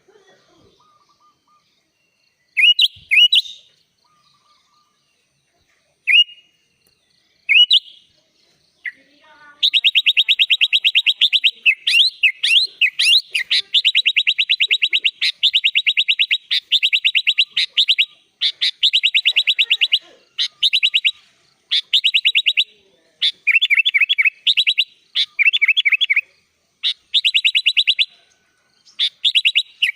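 Sooty-headed bulbul (kutilang) singing: a few separate sliding whistled notes at first, then from about a third of the way in a long, very fast trilled chatter, broken into bursts of a few seconds each.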